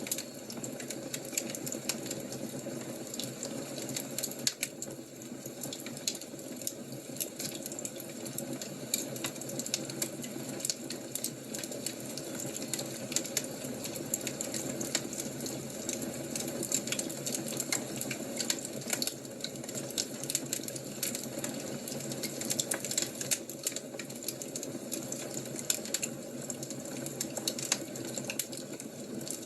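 Fire crackling steadily, with frequent irregular sharp pops and snaps over a soft hiss.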